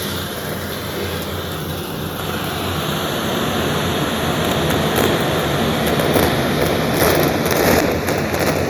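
Vacuum cleaner running steadily with a faint whine, crackling as crunchy debris is sucked up, with the crackle growing denser in the second half.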